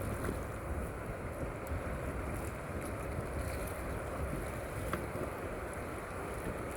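Steady rush of river water with wind buffeting the microphone, and one brief click about five seconds in.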